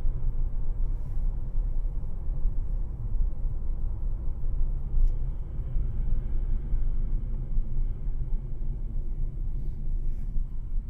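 Steady low rumble of a moving vehicle: engine and road noise, with no clear crash or impact.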